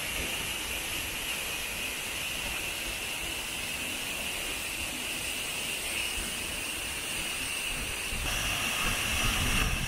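Waterfall: a steady rush of falling water, a little louder near the end.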